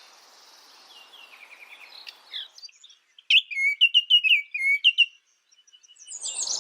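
Birds chirping and singing in several short, high trilling phrases separated by brief pauses.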